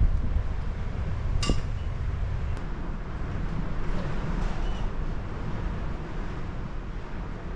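Strong wind buffeting the microphone, a steady low rumble, with a single sharp clink about a second and a half in.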